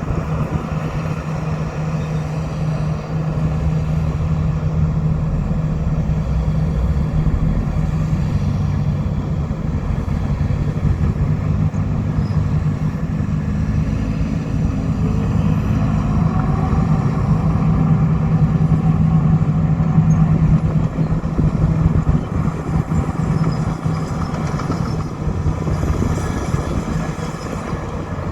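An old Komatsu bulldozer's diesel engine runs steadily under load. Its pitch and loudness rise through the middle and ease off a little near the end.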